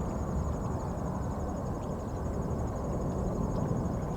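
Insects, crickets most likely, trilling in a steady high-pitched pulsing line over a low outdoor rumble.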